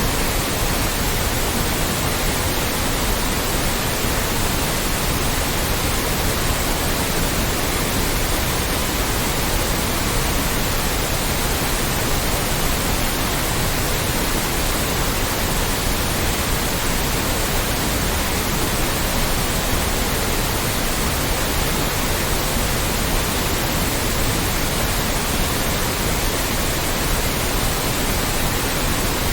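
Loud, steady white noise: an even, unchanging hiss spread across the whole range from low to high.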